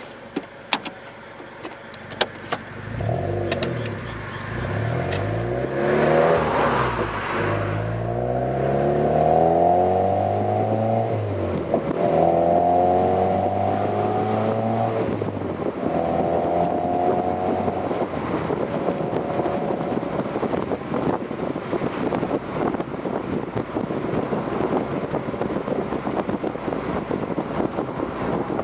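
Mazda MX-5 four-cylinder engine through an RS Factory Stage Gentle aftermarket exhaust, pulling away and accelerating through the gears. The pitch climbs in each gear and drops at each upshift, four times. It then settles into a steady cruise under heavy wind and road noise with the top down.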